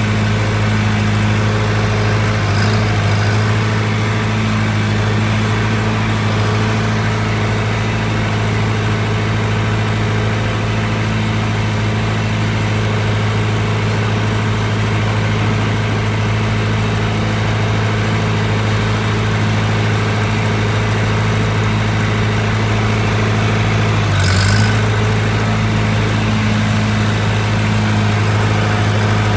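Antique farm tractor engine running steadily at a constant speed. About 24 seconds in there is a brief hitch with a short hiss.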